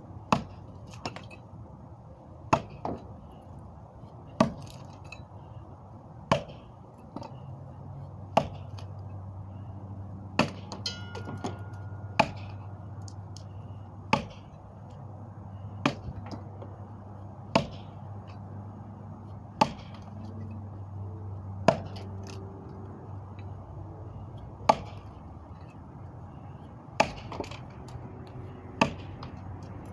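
Repeated sharp impacts, like chopping or knocking, about one every two seconds, over a steady low hum.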